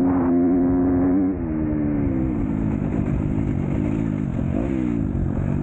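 Motocross bike engine held at high, steady revs. About a second in it drops off, then rises and falls with the throttle.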